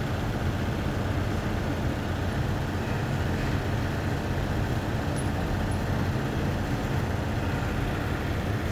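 An engine running steadily at idle: a constant low drone with no change in speed.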